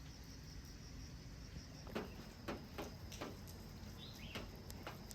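Faint, steady high-pitched drone of crickets. From about two seconds in, several short sharp knocks and a single brief chirp.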